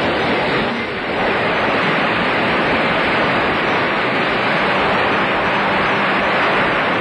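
Loud, steady machine-shop din of factory machinery running, a dense wash of noise with no clear tone that dips briefly about a second in.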